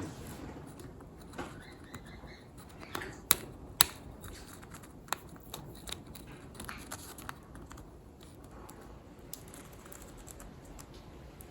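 Sun conure's beak chewing and nibbling at a toy or stick: irregular small crunches and clicks, with two sharp, louder clicks about three and a half seconds in.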